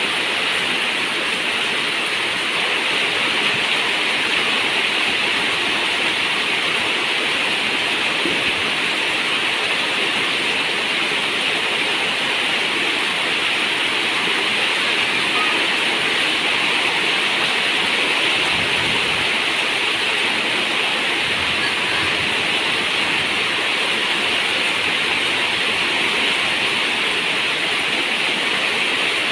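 Steady rain falling on a zinc roof, an even, unbroken hiss with no pauses.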